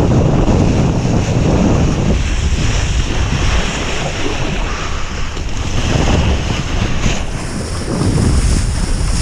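Heavy wind buffeting the microphone while riding, with rushing water from the board skimming the surface. The roar swells and dips in gusts.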